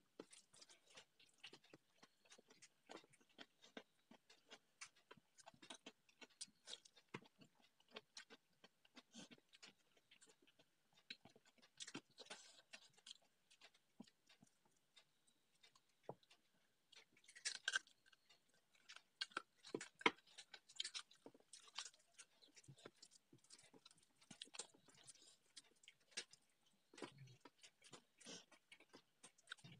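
Faint chewing and wet mouth clicks from someone eating rice and curry with their fingers, mixed with small sounds of the hand working food on a steel plate. Short clicks come in a dense, uneven run, louder for a few seconds just past the middle.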